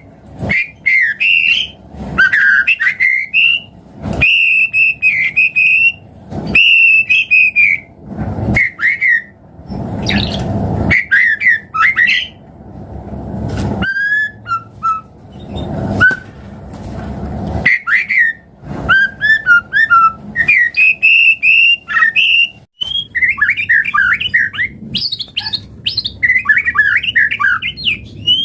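White-rumped shama singing a loud, varied song: quick whistled phrases and chattering runs, one after another with short pauses between them.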